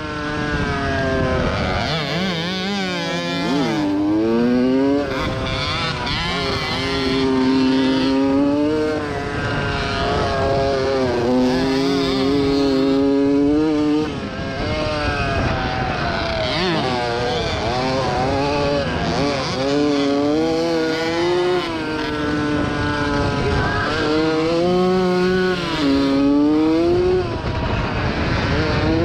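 1987 Yamaha YZ80 two-stroke motocross engine under race load, its pitch climbing and dropping over and over as the throttle is opened and chopped through the gears.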